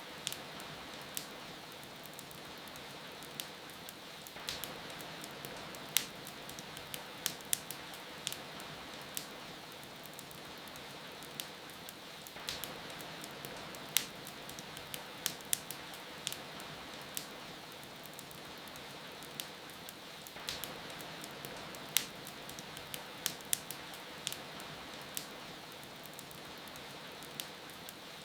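Wood fire crackling, with sharp irregular pops and snaps, over a steady hiss of falling rain.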